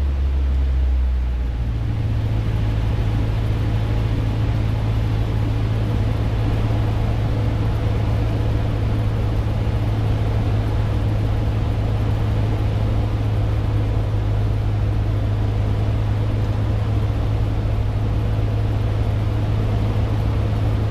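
Cessna 150's four-cylinder Continental O-200 engine and propeller droning steadily in the cabin in flight. Its pitch steps up about a second and a half in, then holds steady.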